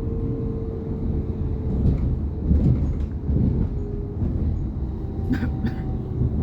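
S-Bahn electric train running: a steady low rumble with a few faint held tones, and two sharp clicks a little after five seconds in.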